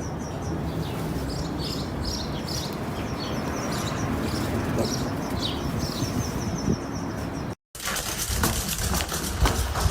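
Small birds chirping repeatedly over a steady outdoor background noise. Near the end, after a brief cut to silence, comes a run of sharp clicks and knocks.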